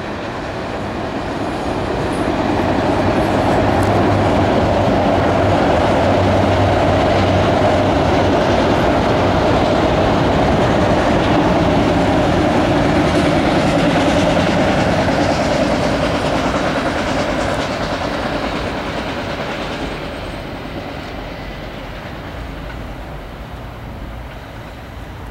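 Enclosed autorack freight cars of a CSX train rolling past on the rails, a steady noise of wheels and cars that builds over the first few seconds, holds, then fades over the last third as the end of the train moves away.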